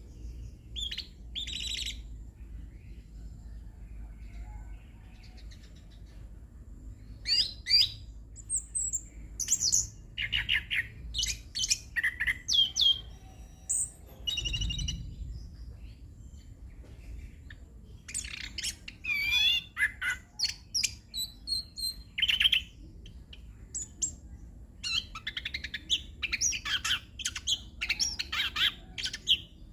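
Chestnut-capped thrush (anis kembang) singing a rolling song of fast, varied whistles and chirps packed with mimicked phrases. The song comes in clusters a few seconds long with short pauses between them, over a faint low hum.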